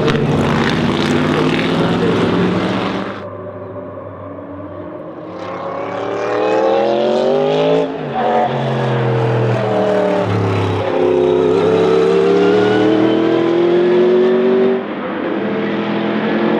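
Historic racing car engines at high revs in several short clips. In the longer middle stretch an engine accelerates hard, its pitch climbing and then dropping sharply twice as it shifts up.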